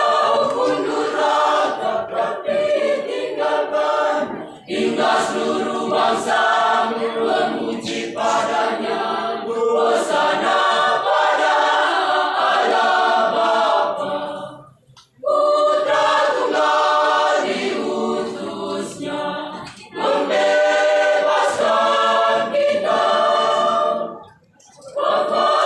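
Mixed church choir singing in harmony, unaccompanied, in phrases of several seconds, with brief pauses for breath about fifteen seconds in and near the end.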